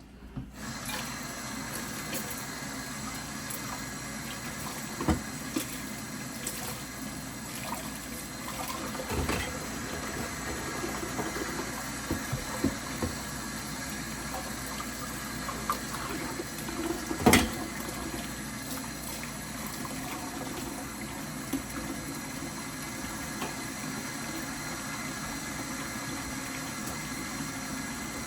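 Steady watery hiss, broken by a few clinks and knocks of kitchen utensils, the sharpest about 17 seconds in.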